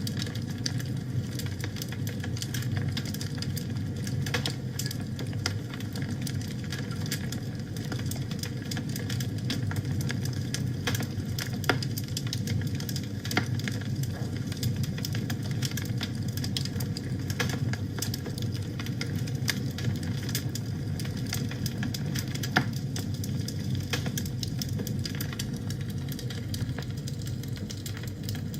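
Wood fire burning in a fireplace: a steady low rush of flames with frequent irregular crackles and pops, a couple of sharper pops standing out.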